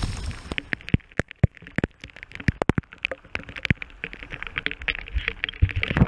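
Raindrops in a storm striking close by in sharp, irregular taps, several a second, over a low wind rush that eases about half a second in.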